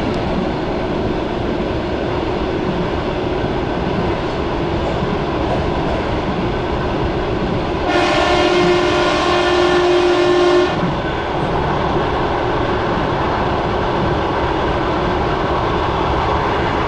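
Suburban electric train running, heard from inside the carriage: a steady rumble and rattle of the wheels on the track. About eight seconds in, a train horn sounds one steady blast lasting about two and a half seconds.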